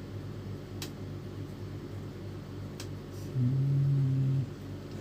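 Epson L310 printer's carriage motor whirring for about a second, a little past the middle, over a steady low hum, with two faint clicks before it. The carriage still stops at the end of its travel with the swapped motor, a fault of the head carriage drive.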